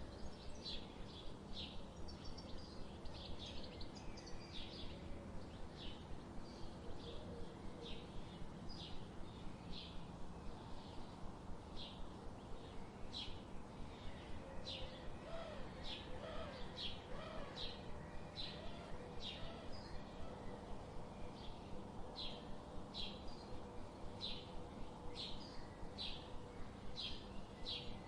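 Small birds chirping: short high chirps repeating about twice a second, over a steady low background hiss, with a few fainter, lower warbling notes near the middle.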